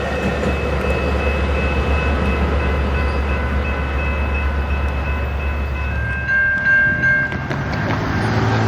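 Train rolling past: a steady low rumble with several thin, steady high-pitched tones above it. The rumble drops away about six seconds in, and one high tone grows louder for about a second.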